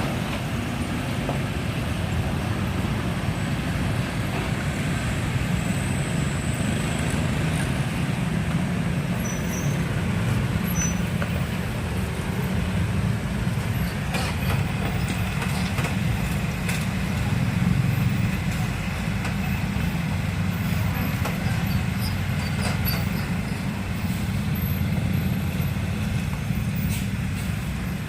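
Steady low rumble of heavy road traffic, with diesel truck and bus engines running.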